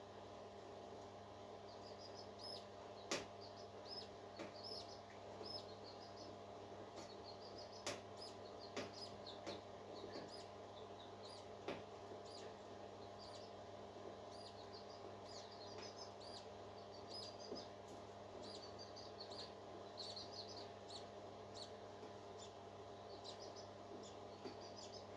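Parakeets chirping: many quick, short high chirps throughout, with a few sharp clicks and a steady low hum beneath.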